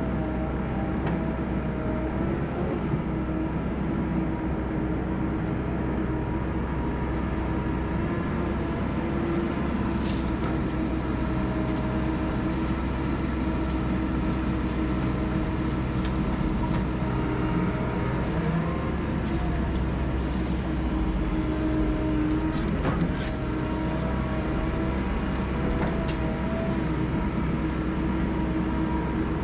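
Diesel engine and hydraulics of tracked heavy equipment running steadily, with a high whine over a low rumble that wavers in pitch briefly twice.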